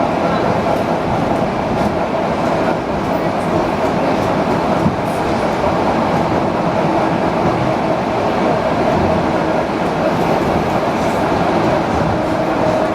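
ED4M electric multiple-unit train running along the track: a continuous rumble of wheels on rails with a steady whine.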